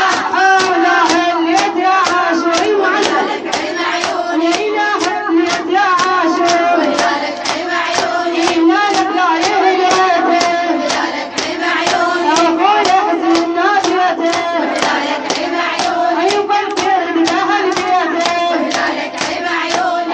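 A woman chanting a Shia Muharram lament (fazzaiya) in Arabic, over steady rhythmic hand-beating of about two beats a second.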